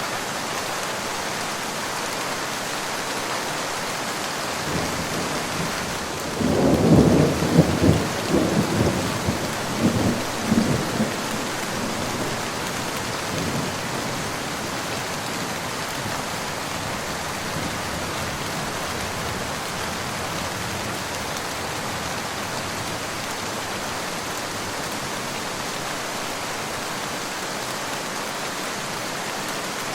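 Steady rain falling, with a rolling peal of thunder that breaks in after about six seconds. It is loudest in its first couple of seconds, with several rumbling peaks, then dies away over the next few seconds.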